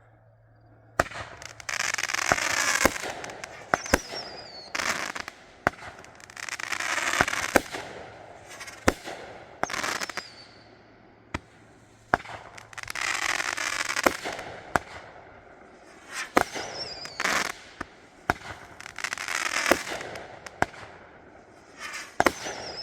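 A 200-gram, 15-shot fireworks cake (Raccoon Fireworks Awake at Dawn) firing, starting about a second in: repeated sharp launch thumps, each followed by long stretches of crackling strobe. Several short falling whistles come from the whistling tails.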